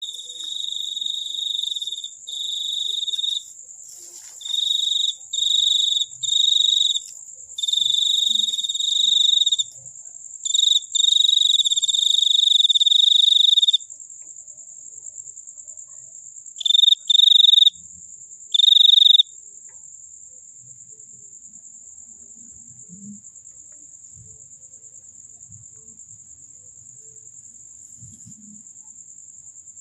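Crickets singing: one loud, high-pitched trill comes in bouts of about a second each with short breaks, stops after about 14 seconds, then returns twice briefly. A fainter, higher-pitched trill from another cricket runs on steadily underneath.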